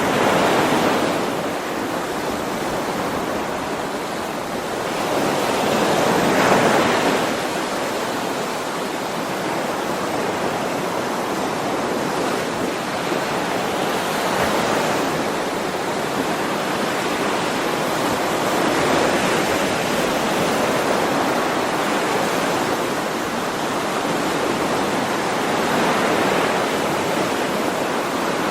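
Sea waves: a steady hiss of surf that swells as waves break and wash in. The biggest swells come at the start and about six seconds in, followed by gentler surges every few seconds.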